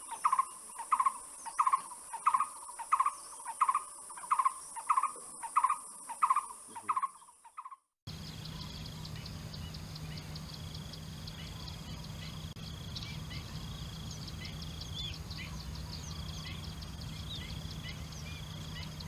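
A bird repeats a single hooting note about twice a second, with a high steady whine behind it. About eight seconds in, the sound cuts abruptly to outdoor ambience: a low steady hum, a high tone that comes and goes, and scattered short bird chirps.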